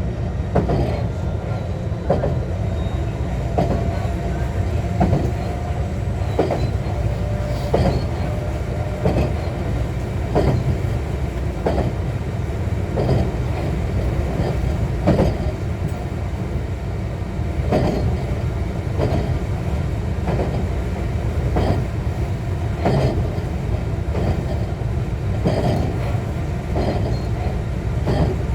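JR West 125 series electric railcar running along the track, heard from inside the car: a steady low rumble with wheels clicking over rail joints about every second and a half.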